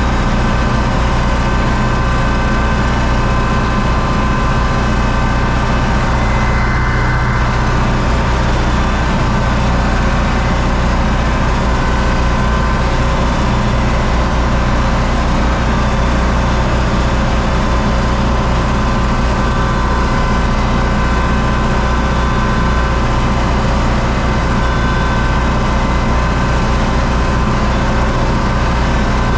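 U650 tractor's four-cylinder diesel engine running steadily, a loud, even drone with no change in speed.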